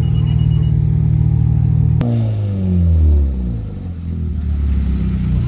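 Car engine running steadily. About two seconds in, an engine note falls in pitch, swells briefly, then settles back to a steady low run.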